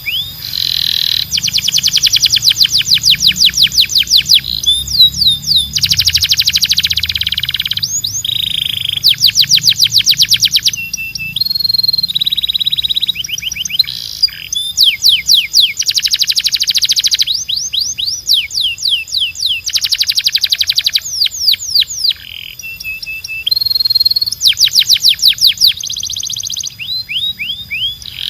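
Canary singing a continuous song: phrases of very fast repeated notes, each rolling for a second or two, alternating with quick downward-sweeping whistles and short trills.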